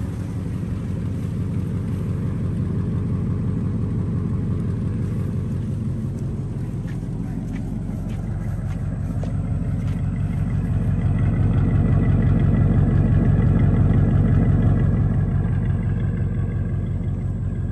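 1948 Cadillac Series 62's flathead V8 idling with a steady, even low rumble. It grows louder for a few seconds past the middle, then eases back.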